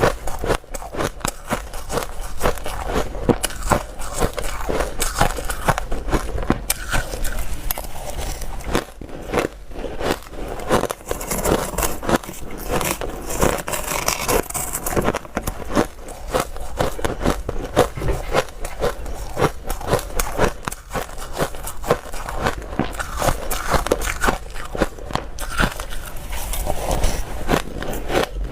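Close-miked crunching of dry, hard ice being bitten and chewed, a dense run of sharp irregular cracks.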